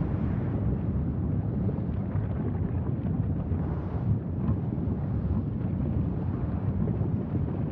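Wind buffeting the microphone: a steady low rumble with small gusty flickers.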